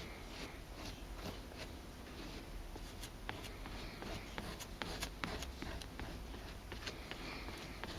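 Hand sanding of scuffed chesterfield leather: sandpaper rubbing in irregular scratchy strokes with frequent sharp ticks.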